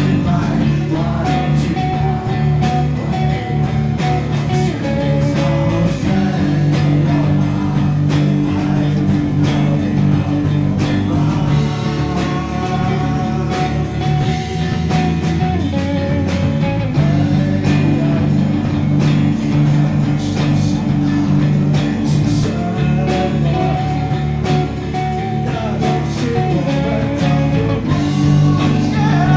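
Live rock band playing, with guitar and singing over a steady beat.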